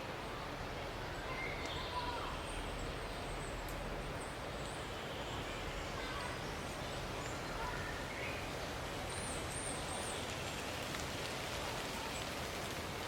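Steady outdoor background noise with faint, scattered bird calls, including a short run of high chirps about nine seconds in.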